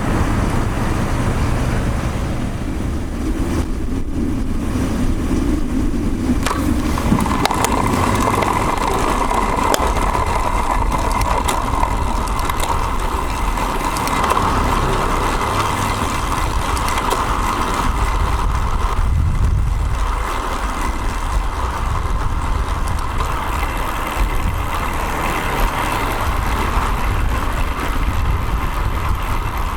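Steady wind and road noise on a bike-mounted action camera's microphone while a road bike is ridden, with motor-vehicle traffic running alongside and a few scattered clicks.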